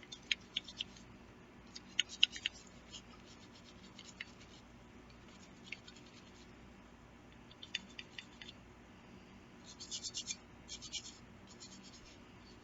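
Toothbrush-style bristle brush scrubbing a pistol slide wet with Hoppe's No. 9 solvent: short scratchy strokes in intermittent bursts, busiest about two seconds in and near the end.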